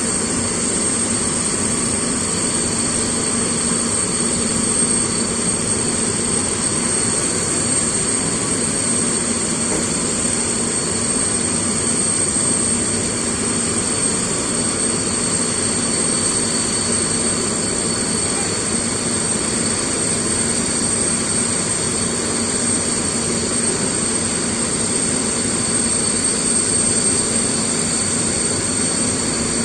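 Antonov An-124 cargo aircraft's turbine engine running steadily: a constant whine over an even rushing noise, with no change in pitch or level.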